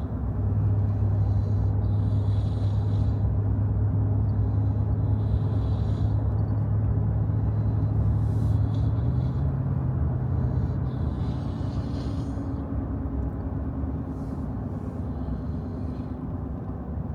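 Car engine and road noise heard inside a moving vehicle's cabin: a steady low drone that steps up slightly in pitch about nine seconds in.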